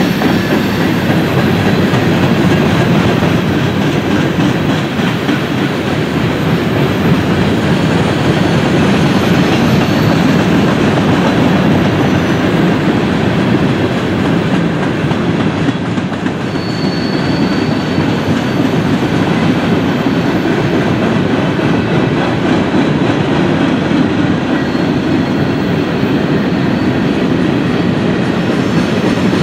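Freight train of covered hoppers and tank cars rolling past: a steady rumble of steel wheels on rail with clickety-clack, and a brief high wheel squeal about seventeen seconds in.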